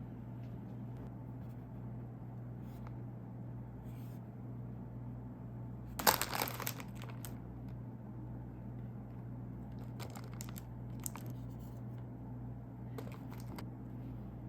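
Plastic snack packaging crinkling as it is handled and opened, with one loud rustle about six seconds in and a few softer crinkles later.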